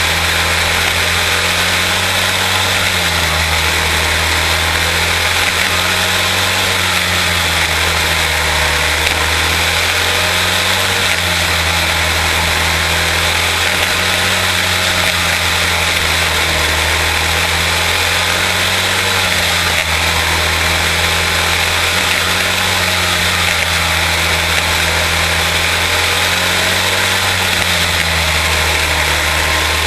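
Quarter-midget race cars running laps on their single-cylinder Briggs & Stratton Animal engines, one steady loud drone. Its pitch rises and falls in a repeating cycle every few seconds as the cars go around the oval.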